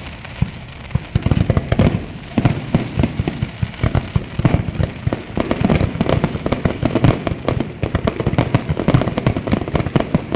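Fireworks display going off: a dense, irregular run of booms and sharp crackling bangs, sparser about the first second and thickening into a near-continuous barrage toward the end.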